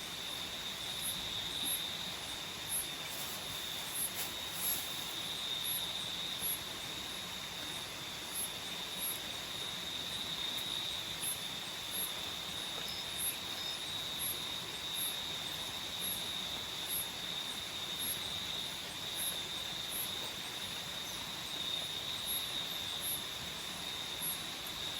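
Tropical forest night insects: one keeps up a steady high-pitched drone while another chirps in short, regular pulses about every two-thirds of a second, over a steady background hiss.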